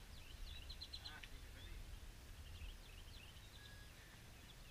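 Faint outdoor birdsong: quick, repeated high chirps and trills from small birds, over a low steady rumble.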